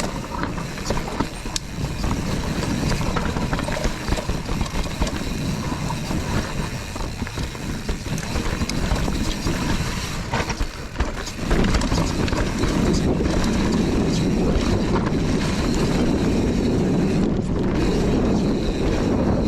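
Enduro mountain bike riding down a dirt trail: tyres rolling over dirt and roots, with scattered clicks and clatter from the chain and frame and wind rushing over the microphone. The rushing gets louder and heavier about halfway through, as the bike picks up speed.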